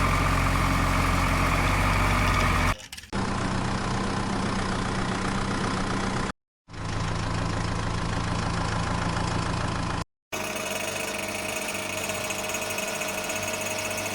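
Engine idling steadily, in several pieces joined by abrupt cuts with brief silent gaps between them.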